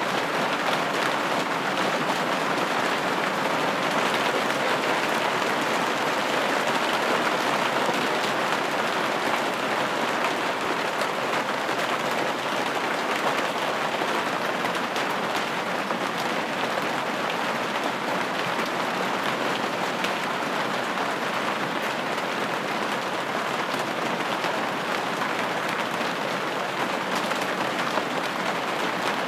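Steady rain falling on a window, a dense even patter of many small drops with no thunder or sudden changes.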